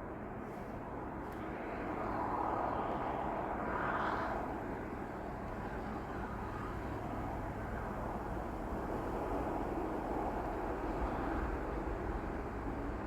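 Long CN freight train rolling past: a steady rumble of wheels on rail that swells a couple of seconds in.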